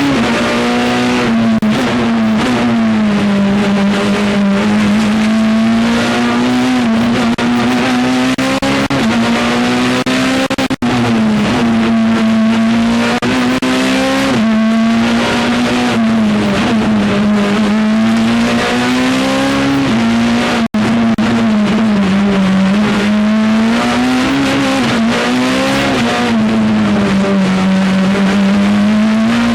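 Peugeot 207 Super 2000 rally car's 2.0-litre four-cylinder engine heard from onboard at full attack, its note rising and falling over and over as the driver accelerates, brakes and shifts between corners. The sound drops out for an instant twice, about a third and two-thirds of the way through.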